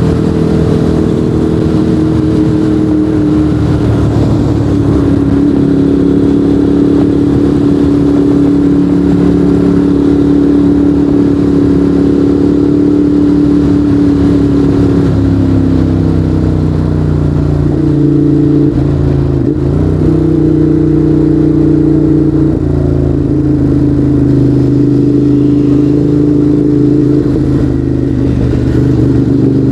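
Ducati Monster 821's 821 cc L-twin engine running loud and steady at cruising revs through a Termignoni exhaust. Its pitch shifts about halfway through and again a few seconds later as the revs change.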